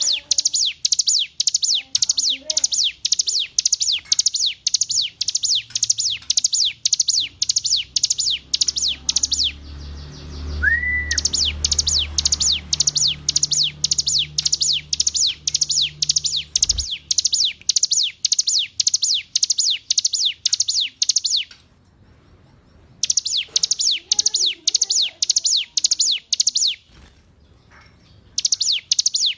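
Ciblek gunung (a mountain prinia) singing a fast series of repeated high, down-slurred notes, about two a second, in long runs broken by short pauses. A low rumble runs under the middle of the song, with a single thump about halfway through.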